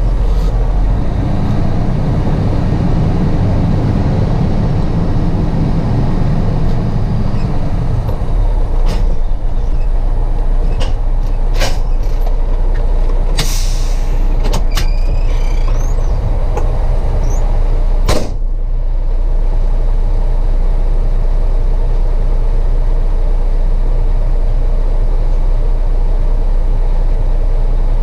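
Heavy truck's diesel engine running steadily, heavier for the first several seconds, with scattered clicks and a short hiss of air about halfway through.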